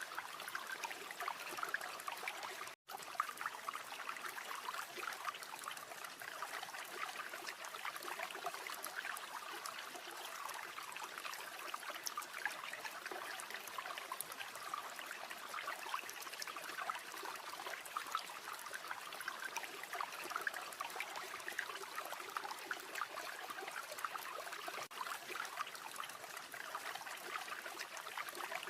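River water running steadily over stones in a continuous babbling rush, dropping out for an instant about three seconds in.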